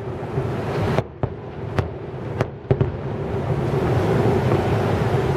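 Aerial fireworks shells bursting: about six sharp bangs in the first three seconds, two of them almost together, then a steady low background rumble once the bursts stop.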